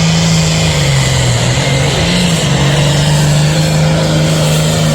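Super Farm class pulling tractor's turbocharged diesel engine running at high revs under heavy load as it drags the weighted sled, its pitch sagging about a second in and briefly rising just after two seconds before holding steady.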